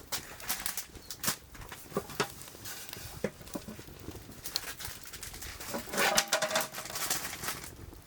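Firewood burning, crackling with scattered sharp pops and snaps; a louder, denser run of crackling about six seconds in.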